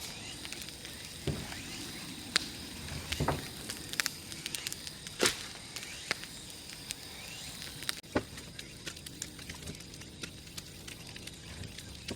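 Large wood bonfire crackling, with irregular sharp pops from the burning firewood, the loudest about five seconds in.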